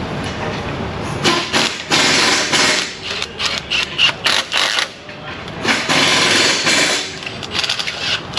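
Power wrench running in repeated short bursts, spinning and snugging bolts during a transmission installation. The bursts start about a second in and become shorter and choppier toward the end.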